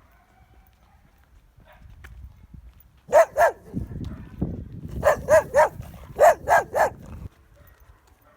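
A dog barking: eight sharp barks in three quick bursts, the first about three seconds in.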